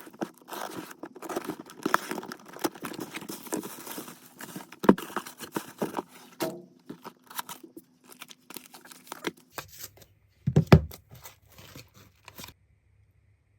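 Rustling and crinkling of packaging and small items being handled, with many quick clicks for the first six seconds or so and sparser clicks after. Two louder dull knocks come about ten and a half seconds in.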